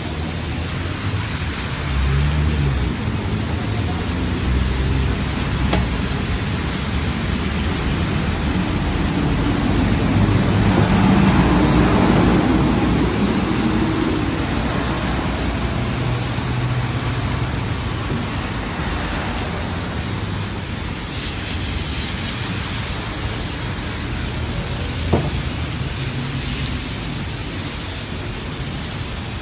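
Rain falling steadily, with a louder swell of rushing noise around the middle and a single sharp tick near the end.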